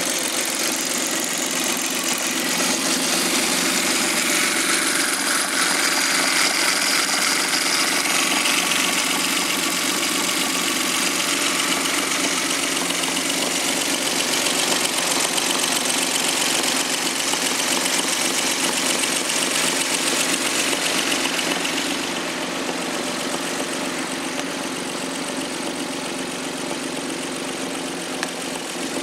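Suzuki K6A 658 cc three-cylinder turbo engine from a JB23W Jimny running steadily at idle. It turns a little quieter about 22 seconds in.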